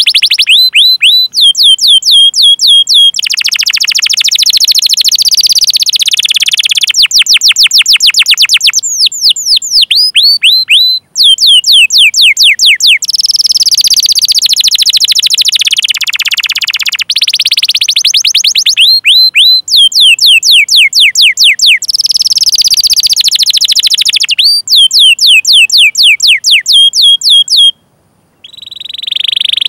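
Domestic canary singing: fast runs of sharp, descending 'cuit cuit' chirps, about eight a second, alternating with dense rolling trills. A brief break comes about 28 seconds in.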